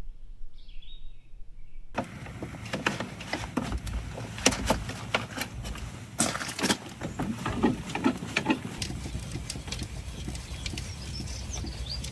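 Heavy rain pattering on a surface, with many irregular drop impacts over a steady low rumble, starting suddenly about two seconds in. A bird chirps briefly before the rain starts, and faintly again near the end.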